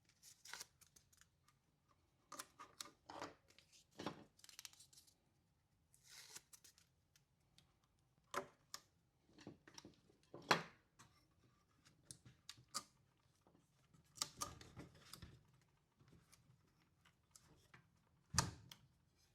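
Scattered quiet clicks, ticks and small handling noises from hand tools and parts at a workbench, with the sharpest click about ten seconds in and another near the end.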